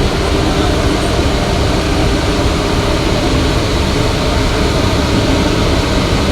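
Engine running steadily, a continuous low drone.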